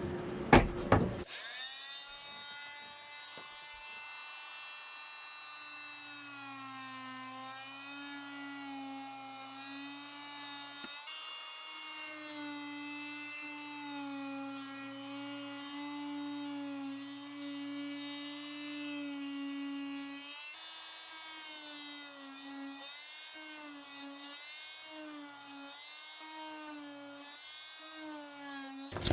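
A small electric power tool's motor running, its pitch wandering up and down as the load changes, after a couple of sharp knocks right at the start. It breaks off for a moment about eleven seconds in, and in the last third its pitch dips about once a second.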